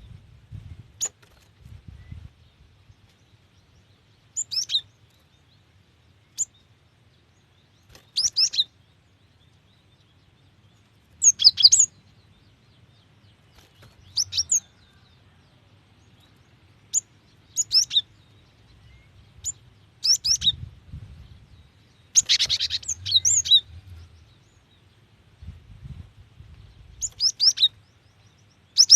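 Female cinereous tit (gelatik batu) calling: short bursts of quick, high chirps, about a dozen spaced irregularly a second or a few seconds apart, the kind of call used to draw males into song.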